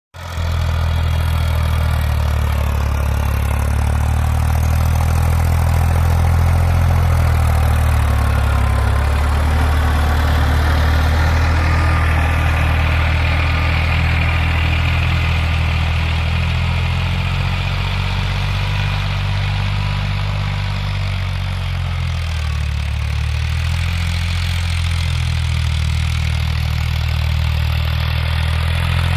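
Tractor's diesel engine running steadily under way, its low drone easing slightly about two-thirds of the way through before picking up again.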